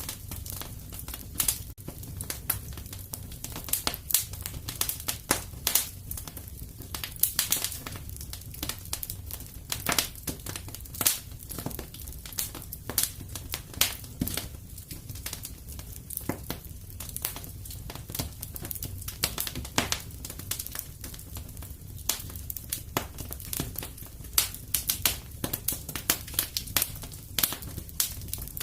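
Wood fire crackling in a fireplace: frequent irregular pops and snaps over a low steady rumble.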